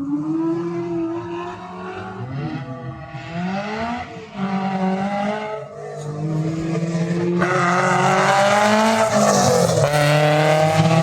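Race car engines running around a street circuit, their pitch rising and falling as the drivers rev and change gear. It gets much louder about seven seconds in as a car comes close, and the pitch drops as it passes.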